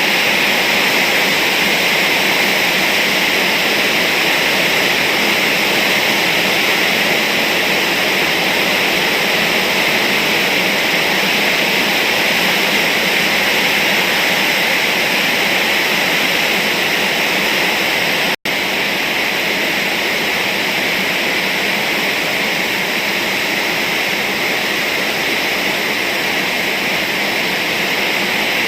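Heavy rain falling on a corrugated zinc roof, a loud, steady hiss without a break in the downpour. The sound drops out for an instant about eighteen seconds in.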